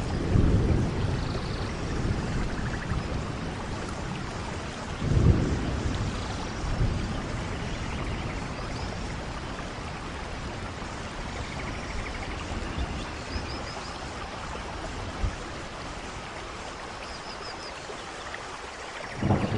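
Steady soft rain falling, an even hiss, with low rumbles of distant thunder swelling about a second in, about five seconds in and again right at the end. A few faint high chirps sound in the second half.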